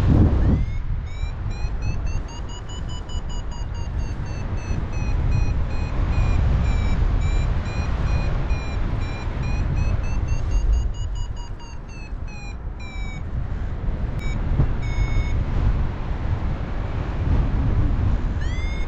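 A paragliding variometer sounding a steady electronic tone that slowly rises and falls in pitch, then breaks into short beeps about fourteen seconds in, the beeping tone that signals the glider is climbing. Wind rushes loudly over the microphone throughout.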